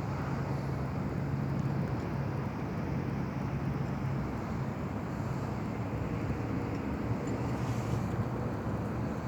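JCB telehandler's diesel engine running steadily, a constant low hum.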